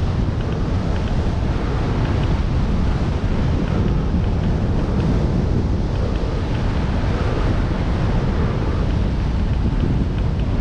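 Strong wind buffeting the microphone of a cyclist's camera: a steady, loud rushing rumble, heaviest in the low end.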